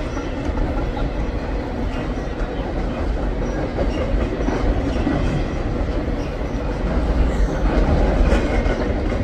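Empty freight cars of a long Norfolk Southern trash train rolling steadily past on the rails, the passing of the train's tail end.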